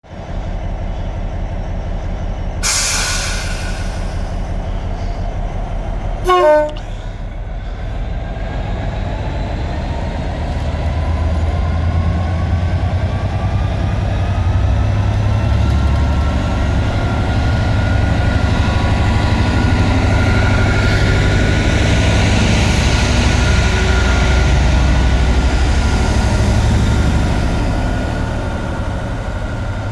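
Class 66 diesel locomotive's two-stroke V12 engine throbbing steadily, with a burst of air hiss about three seconds in and a short horn blast about six seconds in. From about eight seconds the engine powers up, its note rising and getting louder, then holds steady at the higher revs.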